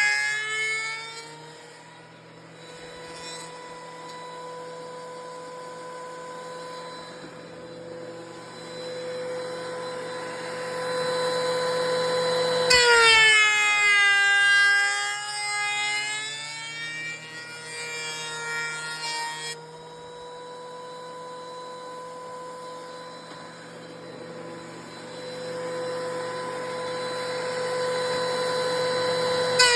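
DeWalt electric planer running with a steady high whine. It is loaded and cutting at the very start, then runs free. About 13 seconds in it drops in pitch and gets louder for some seven seconds as it takes a cut through wood, then winds back up to its free-running whine, and it bogs into another cut right at the end.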